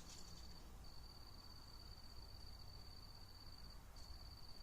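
Near silence: quiet room tone with a faint, steady high-pitched trill that breaks off briefly twice.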